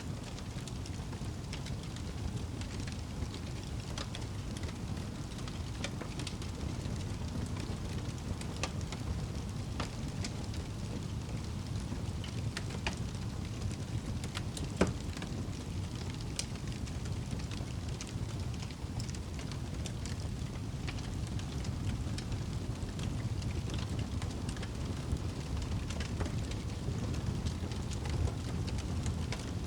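Wood fire burning in a fireplace: a steady low rumble with scattered sharp crackles and one louder pop about halfway through.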